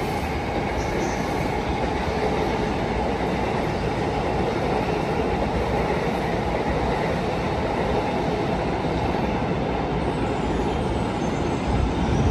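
Electric commuter train running along the tracks: a steady rumble of wheels on rails.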